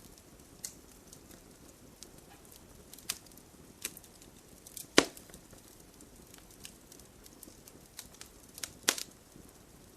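Wood fire in an open fireplace crackling, a low steady hiss broken by irregular sharp pops, with two louder snaps about halfway through and near the end.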